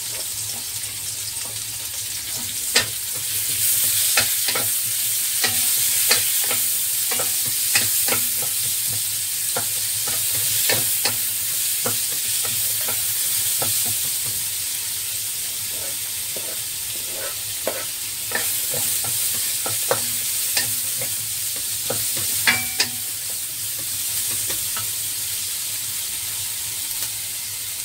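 Sliced onion, garlic and ginger sizzling in hot oil in a wok, stirred with a wooden spatula that knocks and scrapes against the pan. A steady frying hiss, broken by scattered sharp knocks of the spatula, the loudest about three seconds in and again near the end.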